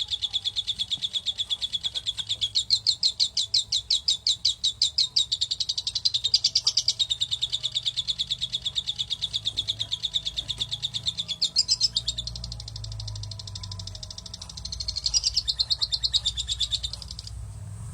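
A young bird chirping non-stop in a fast, even string of high chirps, about eight to ten a second. The chirping drops away about twelve seconds in, picks up again a couple of seconds later and stops shortly before the end.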